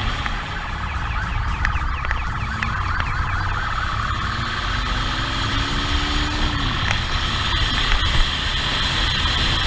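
Police motorcycle siren sounding over engine and wind noise, with a quick run of short rising yelps a second or two in. Underneath, the motorcycle engine climbs in pitch and then drops off, about halfway through.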